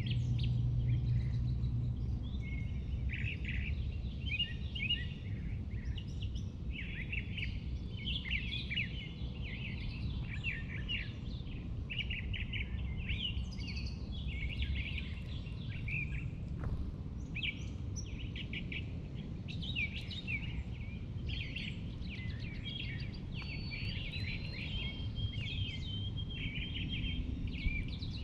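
Several songbirds singing and chirping at once, their calls overlapping without a break, over a steady low background rumble.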